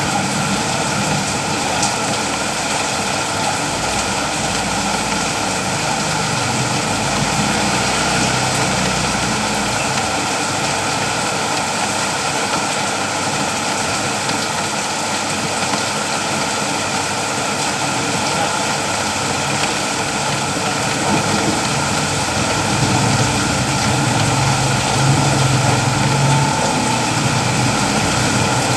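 Steady rain falling, an even hiss. A low rumble swells for a few seconds near the end.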